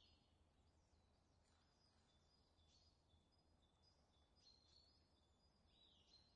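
Faint birdsong from several birds: many short, high whistled notes, with an upslurred call at the start and another near the end, over a faint steady low hum.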